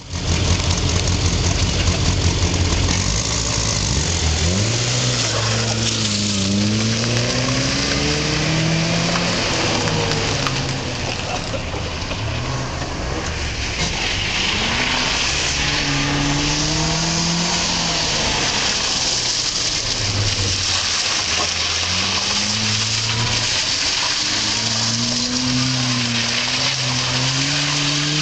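Classic Mini's A-series four-cylinder engine revving up and down over and over as the car is driven round a tight cone course, the revs climbing and dropping every second or two. A steady hiss runs under it.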